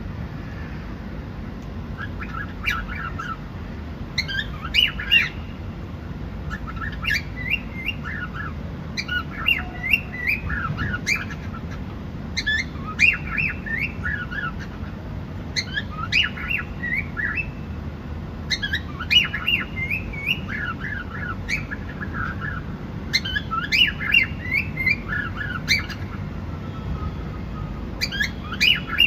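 Cockatiel chirping in short, rapid runs of calls that come every second or two, starting about two seconds in, over a steady low hum.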